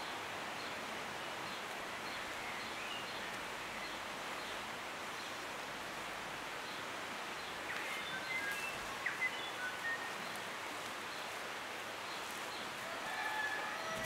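Outdoor garden ambience: a steady background hiss with birds chirping in short bursts about eight seconds in and again near the end.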